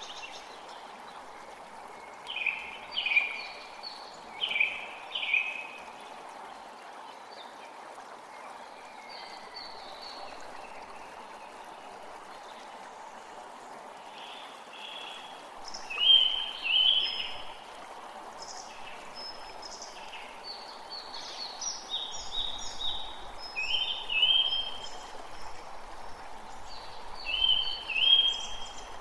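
Forest creek running with a steady rush of water, while songbirds call over it in short phrases of a few quick notes, in clusters a couple of seconds in, about halfway through and again toward the end.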